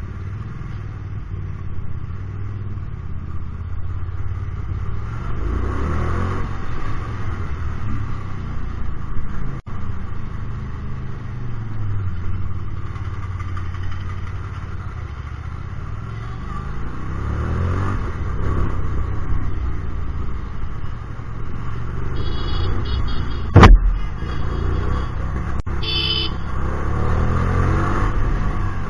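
Hyosung GT250R's 250 cc V-twin running through an aftermarket Solfer exhaust, its revs rising and falling repeatedly as the bike rides in traffic. A single sharp thump about three-quarters of the way through is the loudest sound.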